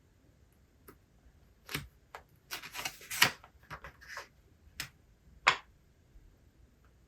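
A series of light clicks and knocks, as of small objects handled and set down on a desk, with a short rustle in the middle. The two loudest knocks come about three seconds in and again about five and a half seconds in.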